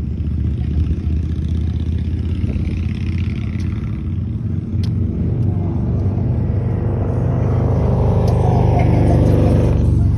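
Motorcycle engine running steadily close by, growing louder over the last few seconds.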